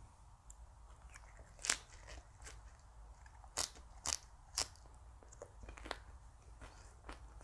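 Crisp crunches and clicks from crunchy food: scattered small ones, with louder sharp ones about two seconds in and three close together around four seconds in.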